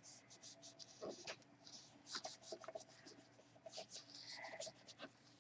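Faint rustling, scratching and light taps of paper being handled on a craft table.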